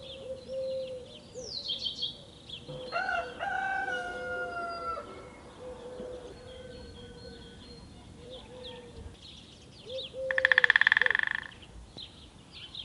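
Rooster crowing once about three seconds in, a drawn-out crow lasting about two seconds, among small birds chirping and short low repeated calls. A loud buzzing rattle sounds for about a second about ten seconds in.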